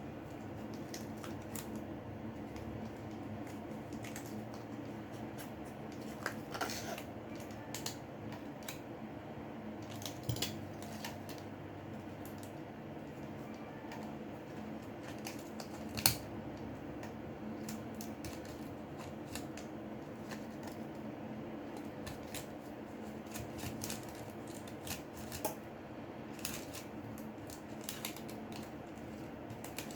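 Small clicks and scrapes of a prying tool working under a phone's glued-down screen, over a steady low hum. A sharper click comes about 16 seconds in.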